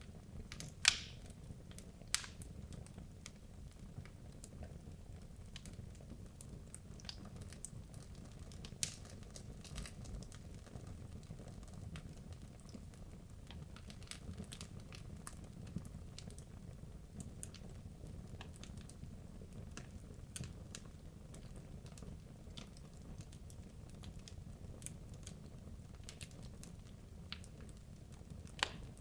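Wood logs burning in a fireplace: a steady low rumble of flame with scattered sharp crackles and pops, the loudest pop about a second in.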